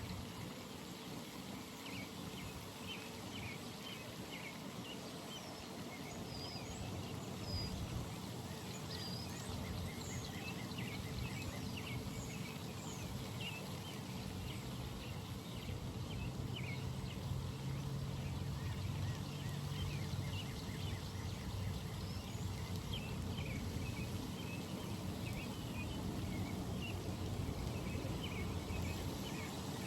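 Pond-side ambience: many small birds chirping and trilling over a steady low rumble.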